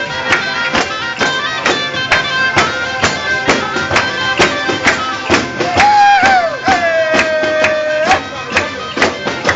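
Southern Italian folk music. A tambourine beats a steady rhythm over a continuous drone, and a long held note enters about six seconds in.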